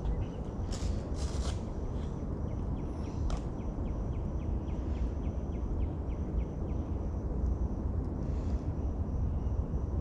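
Outdoor ambience: a steady low rumble on the microphone, a thin steady high-pitched whine, and from about two to seven seconds in a run of about three quick ticks a second from a calling animal, with a couple of short rustles about a second in.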